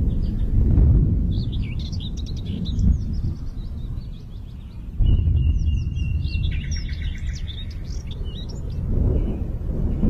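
Small birds chirping and calling with quick high notes and a short rapid trill, over a steady low rumble that gets suddenly louder about halfway through.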